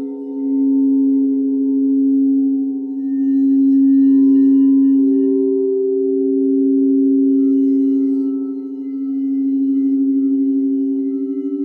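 Singing bowls ringing, several sustained tones overlapping with a slow pulsing wobble. The sound swells and eases back twice as the bowls are played again.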